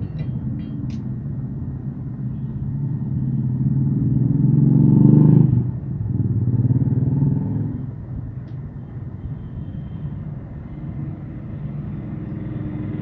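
A motorcycle engine running, its steady low hum building to a peak about five seconds in, then dropping off sharply, swelling once more briefly and settling lower.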